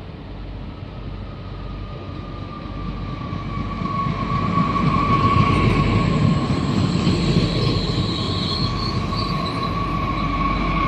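Train rolling past on the rails, its rumble growing louder from about three seconds in, with a steady squeal from the wheels running over it.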